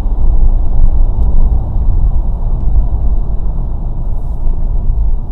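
Steady, loud low vehicle rumble picked up by a dashcam's microphone.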